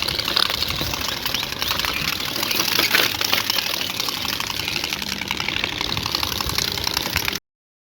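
Motorbike engine running through newly fitted aftermarket exhausts, a fast steady rattling beat; the sound cuts off suddenly near the end.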